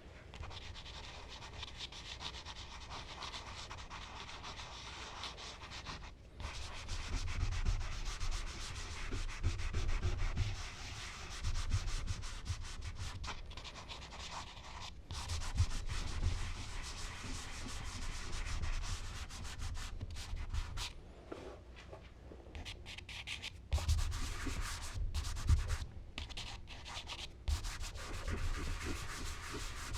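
Charcoal being worked across smooth Bristol paper: steady rubbing and scratching of charcoal and blending tools on the paper surface, in long passes broken by brief pauses.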